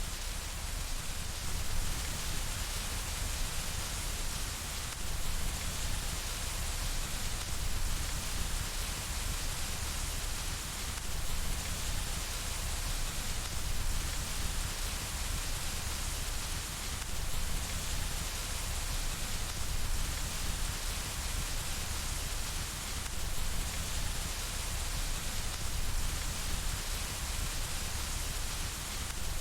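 Steady rain falling on window glass, an even hiss that goes on unbroken.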